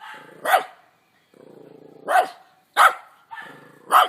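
Dog barking: four loud barks, unevenly spaced, with quieter low sounds between them.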